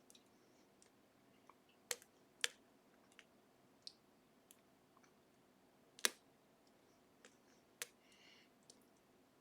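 Metallic clicks of a lock pick working the gin-spool pins of a Ruko/Assa 500 pin-tumbler lock under tension: scattered light ticks with four sharper clicks, two close together near the start and two more later.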